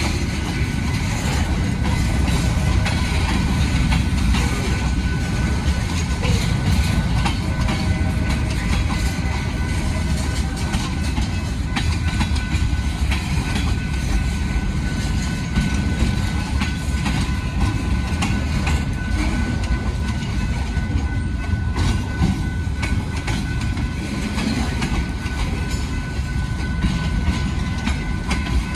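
A train rolling past, a steady low rumble with scattered wheel clatter and faint steady high-pitched tones over it.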